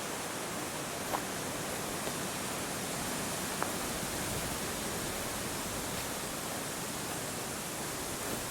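Steady, even hiss of outdoor background noise, with two brief faint chirps about a second and three and a half seconds in.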